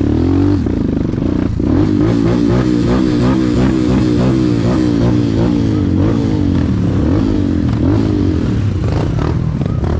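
Motorcycle engine running under load on a rough trail, its pitch rising and falling again and again as the throttle is worked.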